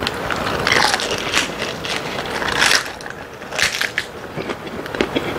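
Close-up crunching of a raw napa cabbage leaf wrap, filled with boneless chicken feet, being bitten and chewed. It is a run of crisp, irregular crunches, the strongest about a second in and near the three-second mark.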